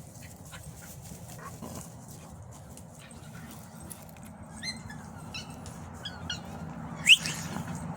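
Puppies whimpering and yelping during rough play with a bigger dog, in short high squeaks, with one loud rising yelp about seven seconds in.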